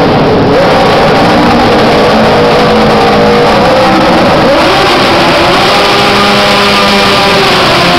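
Mini pulling tractor's engine running hard at high revs while dragging a heavy sled, very loud and steady, its pitch sagging and climbing again as the load changes.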